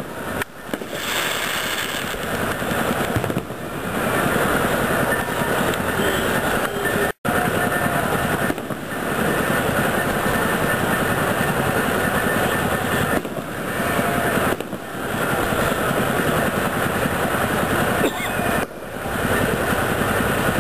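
Fireworks going off in a dense, continuous rapid crackle, like a long chain of firecrackers, with a sudden brief break about seven seconds in.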